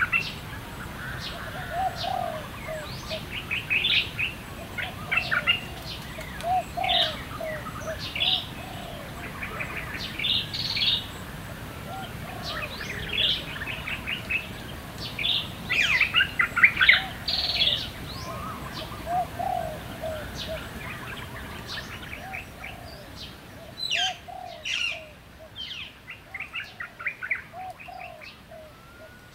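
Birds chirping and calling: quick bursts of high chirps every second or two, over short, low, repeated calls, growing sparser near the end.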